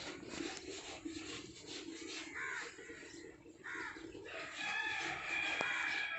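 Crows cawing outdoors: a couple of separate caws, then a longer held call over the last second and a half, over a steady low hum.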